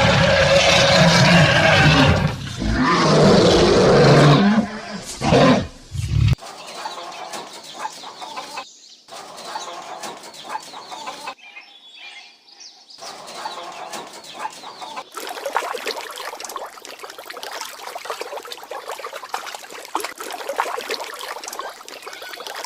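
Animal sounds from several short clips cut together: a loud, rough animal call over the first six seconds, then quieter outdoor sound through the rest.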